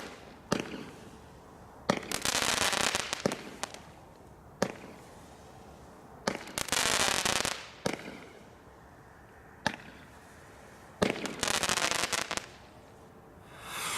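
Consumer fireworks from a Bright Star Giant Bonfire selection box going off: a sharp bang every second or two, three of them followed by a second or so of dense crackling.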